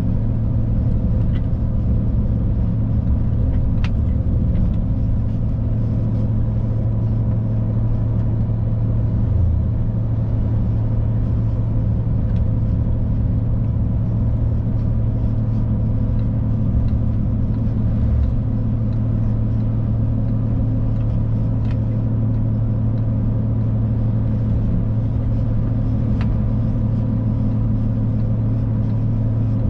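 Scania Next Generation truck engine running steadily at cruise, heard from inside the cab as an even low drone over tyre and road noise.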